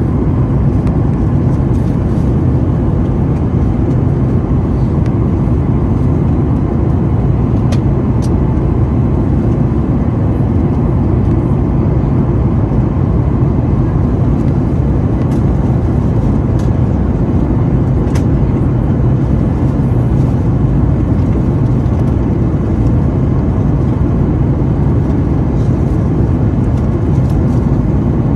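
Steady low rumble of jet engines and rushing air inside the cabin of a Boeing 737-900ER, with a few faint clicks.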